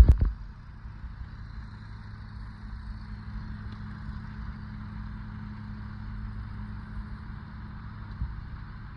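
A single heavy thump, then a steady low rumble.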